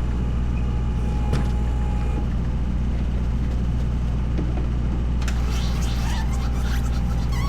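A vehicle engine running steadily at idle, a constant low rumble. Light clicking and rattling sounds join in during the second half.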